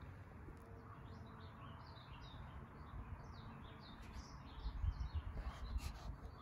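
Small birds chirping in the background: a quick string of high chirps, with a low rumble coming in over the second half.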